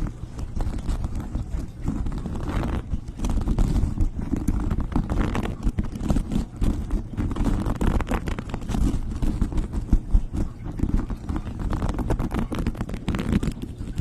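Close-up ASMR tapping and rubbing sounds: a continuous dense patter of quick, dull taps and scratches.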